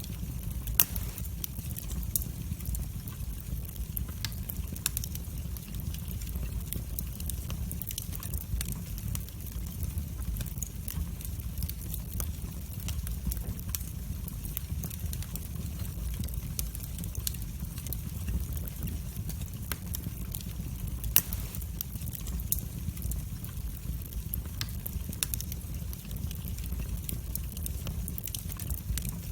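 Wood fire burning in a fireplace: a steady low rumble of the flames with frequent sharp crackles and pops, two louder pops about a second in and about 21 seconds in.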